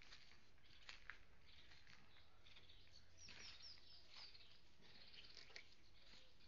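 Faint background with scattered bird chirps, including a quick run of four short, falling chirps about three seconds in.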